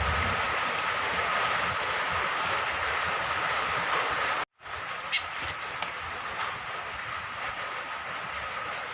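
Steady hiss of falling rain. It cuts out completely for a split second about halfway, then resumes a little quieter, with a brief sharp high sound soon after.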